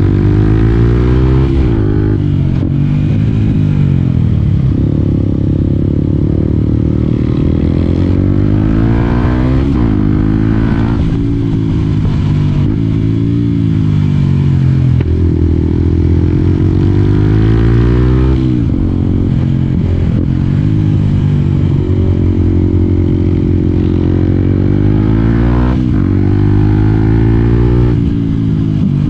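Yamaha WR 125 X's single-cylinder four-stroke engine running under load, its pitch repeatedly climbing with the revs and then dropping sharply or winding down, as when riding through the gears and rolling off the throttle.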